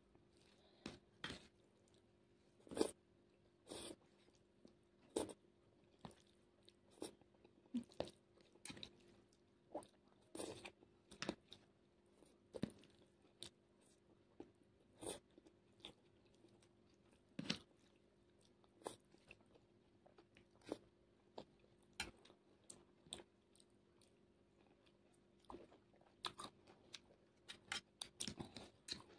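Close-miked eating of masala noodles: wet chewing and biting with sharp crunchy clicks at irregular intervals, a few seconds apart and bunching near the end.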